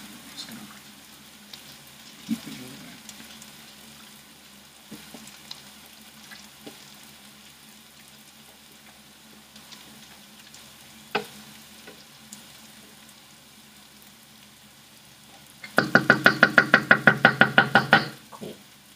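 Onions frying in a pan with a low, steady sizzle and a few light knocks. Near the end comes a loud, rapid rattle of about eight strokes a second that lasts about two seconds.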